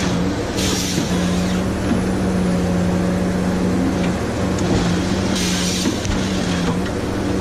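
Heavy diesel engine running steadily, with a few short bursts of hiss.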